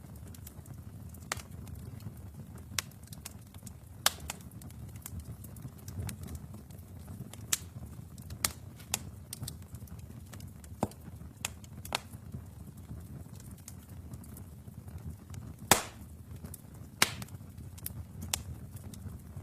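Wood fire burning in a fireplace: a low steady rumble of flames with irregular sharp crackles and pops, a few louder snaps about four seconds in and again near sixteen and seventeen seconds.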